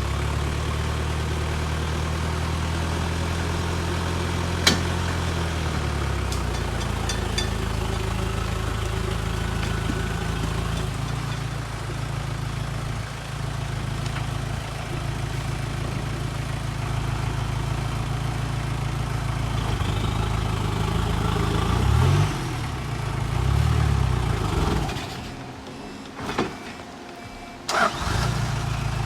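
Off-road vehicle engine running steadily, with a single sharp click about five seconds in. Near the end it revs up and down twice, drops away for a couple of seconds, then comes back after a sharp burst, as if restarted.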